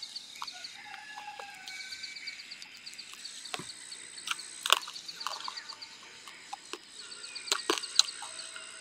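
Close chewing of charred roasted rat meat, with scattered sharp crunching clicks. Behind it run a steady high pulsing trill and faint bird calls.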